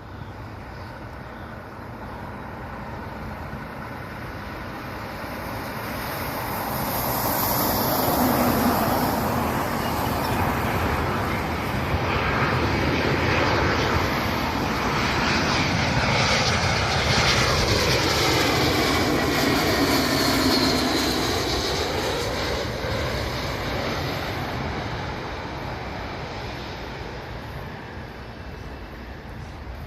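Airliner passing on its landing approach: the engine noise swells, is loudest for about fifteen seconds, then fades as it moves away, with a high whine that falls in pitch as it passes.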